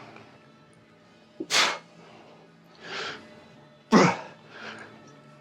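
A man breathing out hard in short, forceful bursts about once a second, with a loud voiced grunt about four seconds in: exertion breaths through the reps of a lat pull-down set. Faint background music underneath.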